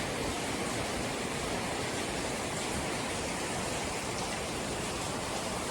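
Steady rushing of flowing water in a canyon, an even hiss with no breaks.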